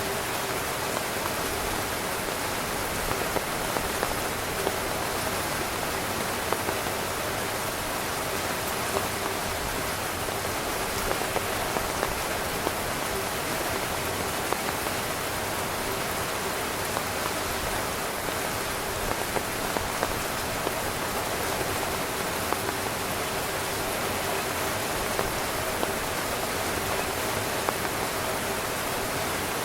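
Heavy rain falling steadily on a tent, with louder single drops tapping now and then.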